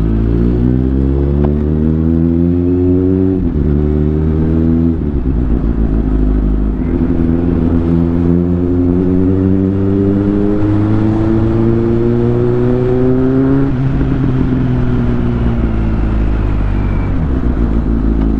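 Superbike engine pulling through the gears while riding: the revs climb, drop at a shift about three and a half seconds in and again near five seconds, then climb steadily for several seconds before dropping again near fourteen seconds and running on more evenly.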